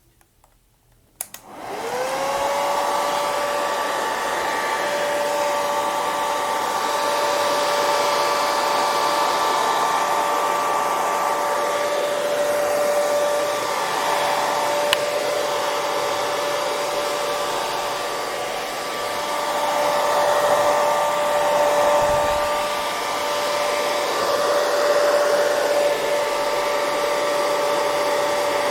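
Hair dryer starting with a click about a second in after a short silence. Its motor whine rises as it spins up, then it runs steadily: a rush of blown air under a few constant whining tones.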